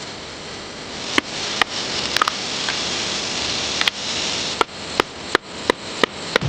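A series of sharp knocks of a tool striking wood, as in chopping or chiselling. The strikes come faster in the second half, about three a second, over a steady hiss.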